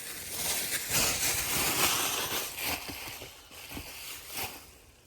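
Packaging rustling and crinkling as small parts are dug out of a parcel, with scattered light clicks and crackles, dying down near the end.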